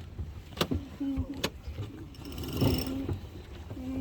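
Sailboat halyard and winch during the hoisting of a sail: the line squeals in repeated short pulls that drop in pitch and then hold steady, with sharp clicks from the winch or blocks in between.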